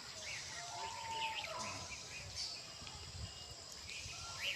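Outdoor field ambience: small birds giving scattered short chirps over a steady high-pitched hiss.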